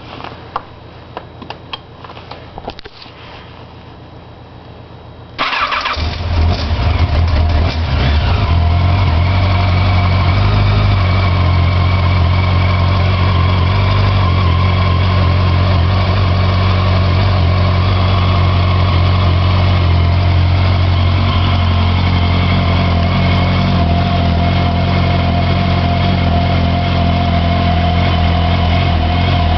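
1988 Yamaha FZ750's inline-four engine started after a few seconds of quiet clicks. It catches suddenly about five seconds in and settles into a steady idle.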